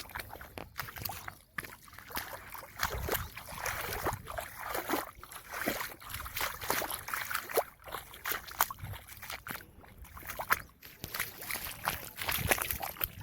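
Water sloshing and splashing in irregular spatters, with a low rumble underneath.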